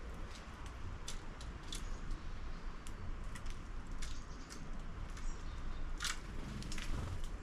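Irregular small clicks and taps, typical of house sparrows pecking and hopping on a plastic 3D-printed bird feeder, over a low outdoor rumble.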